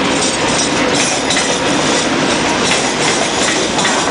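TGV high-speed train moving through the station: a steady loud rush of wheels on rail with faint repeated clicks, mixed with wind on the microphone.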